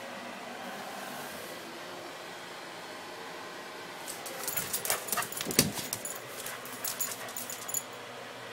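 A dog making a quick run of clicking, rattling sounds for about four seconds, starting about halfway through, over a steady background hiss.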